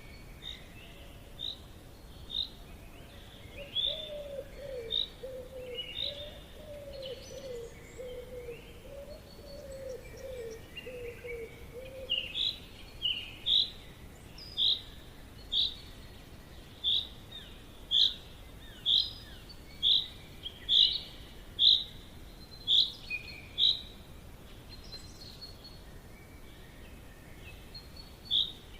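Forest birds calling: a series of short, high chirps repeated about once a second, with other high calls overlapping. In the first half a lower, wavering call repeats for several seconds. A faint steady background hiss runs underneath.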